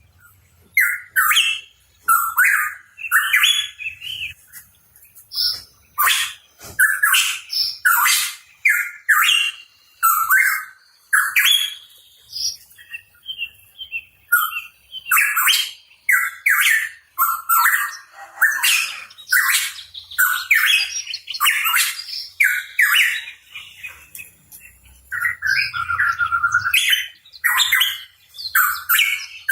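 Pitohui calling continuously: a quick run of short, varied whistled and chattering notes, several a second, with a brief lull near the middle.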